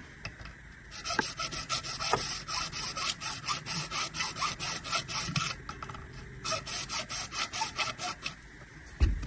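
Hand saw cutting through a large plastic drain pipe in quick, even rasping strokes. The sawing pauses about five and a half seconds in, then resumes. A low thump comes near the end.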